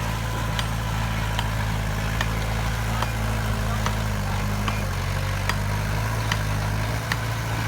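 Heavy construction machine's diesel engine running steadily at low revs, its pitch dropping slightly a little under five seconds in, with sharp clicks recurring about once every 0.8 seconds.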